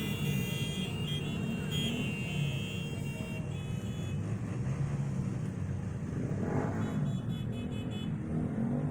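Engines of cars and motorcycles running in a slow parade, with one engine note rising and then falling about six and a half seconds in.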